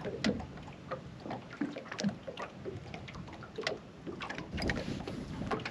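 Wind rumbling on the microphone and water lapping against a small fishing boat, with scattered light clicks and taps.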